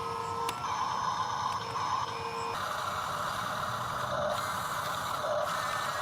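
Whine of a toy-grade RC construction machine's small electric gear motors, with the pitch stepping up about two and a half seconds in as the load or speed changes, and short beeps about once a second after that.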